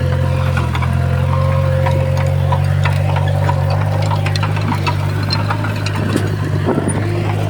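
Komatsu D20P bulldozer's diesel engine running steadily, with scattered clicks throughout.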